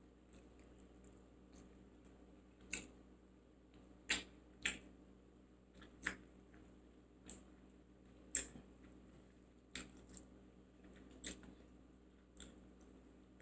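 Close-miked chewing of fried chicken wings: about a dozen short, sharp crunching clicks, roughly one a second, with quiet between.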